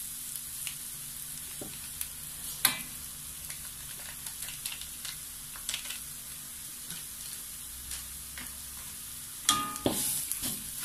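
Curry spice mixture sizzling in hot oil in a steel wok while it is stirred with a metal spatula, which scrapes and knocks against the wok about three seconds in and again near the end.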